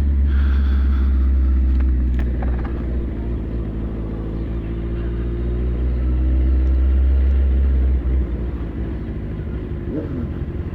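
A vehicle engine running at low speed: a steady, deep rumble that eases a little about two seconds in and again about eight seconds in.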